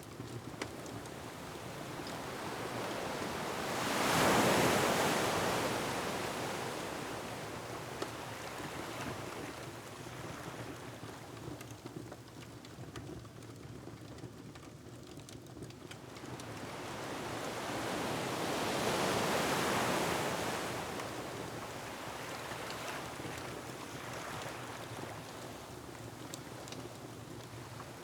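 Ocean waves surging against a rocky shore, with wind. Two big swells rise and fall away, one about four seconds in and another about two-thirds of the way through, over a steady wash of surf. A few faint crackles from a wood fire are heard now and then.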